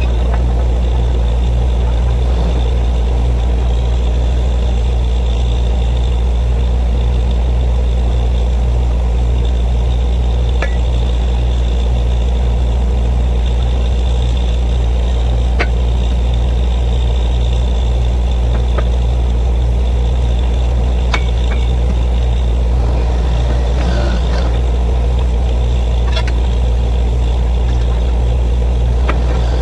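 Borewell drilling machine running steadily with a constant heavy engine drone, broken by a few sharp clicks.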